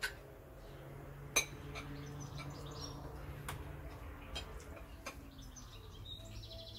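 Cutlery clinking sharply against plates and bowls four times during a meal, over a low steady hum.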